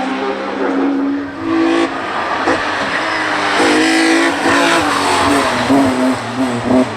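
Hill climb race car engine under hard acceleration. Its note climbs and drops back several times in quick succession as the driver shifts gears and lifts off.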